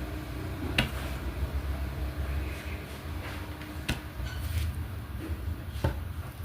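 Diamond painting work: three sharp light clicks and a few fainter ticks of the drill pen and resin drills, over a steady low rumble.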